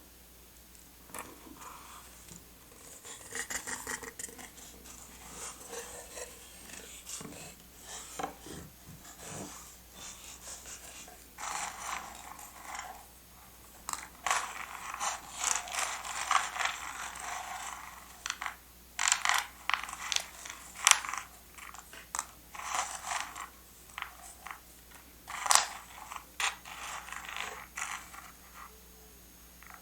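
Close-up sounds of paper and stationery being handled while a journal is decorated: scattered small clicks and taps, with a longer stretch of scratchy paper rustling in the middle.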